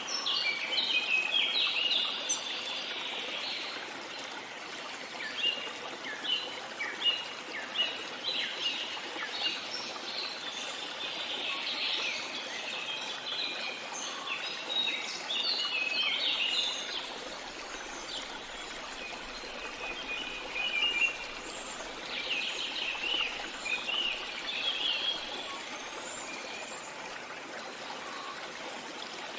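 Birds chirping and singing in quick, busy runs of short notes over a steady rush of flowing water, the chirping thinning out near the end.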